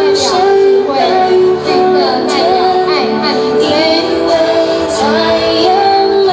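A children's chorus singing a song together with a woman's voice, over musical accompaniment.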